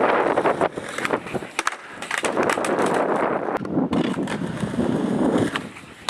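Skateboard wheels rolling on a hard floor, with several sharp clacks of the board in the middle.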